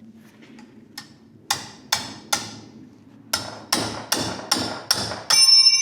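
Hammer striking metal, likely a wrench or the turbocharger, in about ten sharp blows in two runs. Each blow rings briefly, and the last one near the end rings on. This is typical of working a stubborn fastener loose on a turbo that is fighting back.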